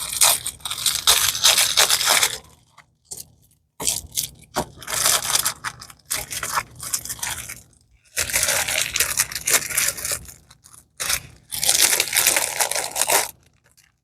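Crinkling and rustling of plastic packaging as rolled diamond painting canvases are unwrapped and handled, in four bursts of a few seconds each with short pauses between.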